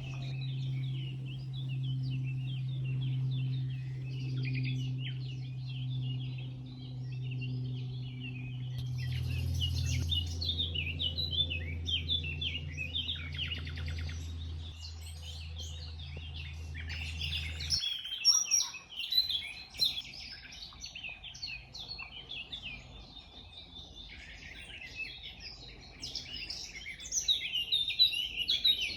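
Wild birds singing and chirping together in a dense chorus of short, high calls, busier and louder in the second half. A low steady hum underneath drops in pitch about nine seconds in and cuts off suddenly at about eighteen seconds.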